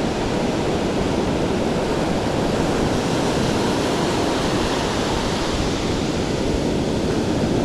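Steady wash of small ocean waves breaking and running up the beach, with some wind on the microphone.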